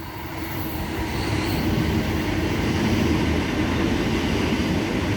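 Sydney Trains H-set (OSCAR) electric intercity train running through the platform, its rumble building over the first couple of seconds and then holding steady and loud.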